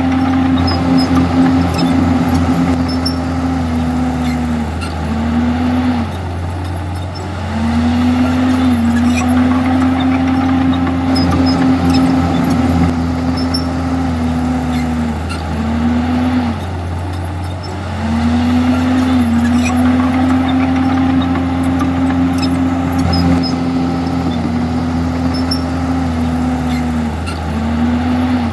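Komatsu D51EX bulldozer's diesel engine running under load. The engine note is steady, with short dips in pitch that come in clusters of two or three about every eleven seconds.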